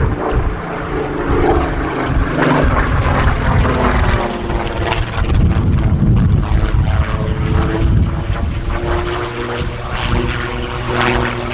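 Piston-engined propeller aircraft flying past at an air display. The engine note swells and shifts in pitch as the aircraft come and go.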